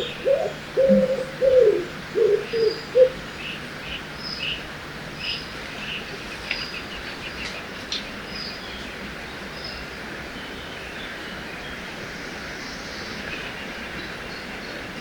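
Forest birdsong by a river: a bird gives a quick run of low cooing notes for about the first three seconds, then small birds chirp and twitter, fading out after about nine seconds, over the steady hiss of flowing water.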